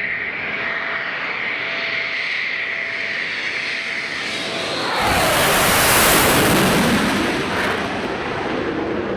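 Eurofighter Typhoon's twin EJ200 turbofan jet engines whining steadily. About five seconds in, a much louder jet roar sweeps in and falls in pitch as the jet passes close by, then eases off.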